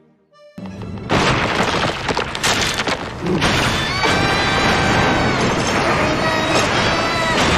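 Cartoon earthquake sound effect: a loud, continuous rumbling and crashing that starts within the first second, with held musical notes sounding over it from about halfway through.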